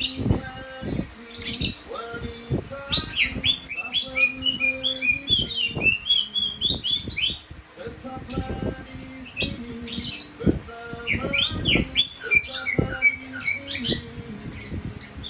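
A songbird singing energetically in quick, varied chirping runs, with two long runs of rapid notes, one in the first half and one near the end.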